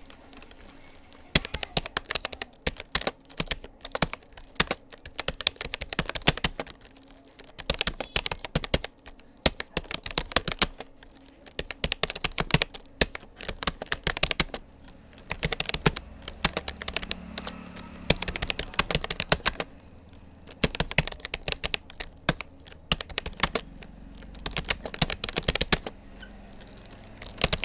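Rapoo computer keyboard being typed on at touch-typing pace: rapid key clicks in bursts of a few words, with brief pauses between them.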